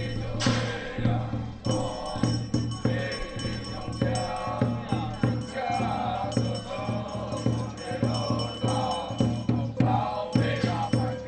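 Taiwanese temple ritual music: a wavering melody over steady, regular percussion strokes.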